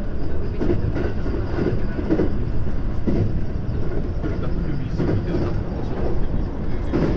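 Running noise of a JR West 521 series electric train under way, heard from inside the cab: a steady rumble of wheels on the rails.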